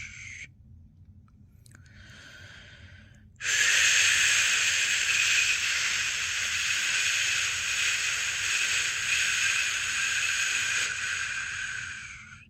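A person's voice making long 'shhh' shushing sounds to lull a newborn to sleep. A shush cuts off in the first half-second and a faint one follows briefly. A loud, steady shush then starts about three and a half seconds in and fades out near the end.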